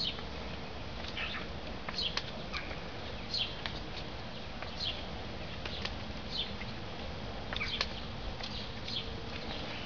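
Birds chirping: short, high, falling chirps repeated every half second to a second, over a faint steady hum.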